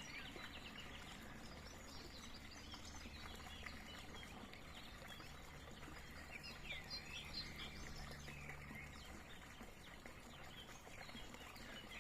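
Several small birds chirping and twittering faintly in short overlapping calls, busiest at the start, in the middle and again near the end, over a low steady rumble.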